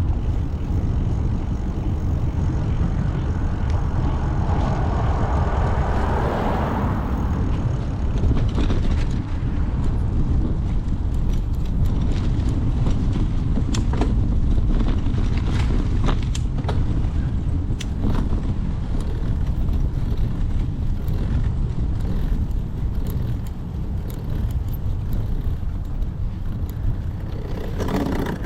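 Steady low rumble of wind and road noise from a moving bicycle, with a motor vehicle passing by about five seconds in and scattered sharp clicks and rattles later on.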